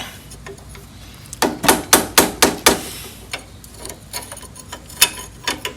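Rapid hammer blows on metal, about six sharp ringing strikes in a second and a half, then a few lighter metallic knocks. The blows are struck at a rust-seized fastener on a VW Type 4 engine.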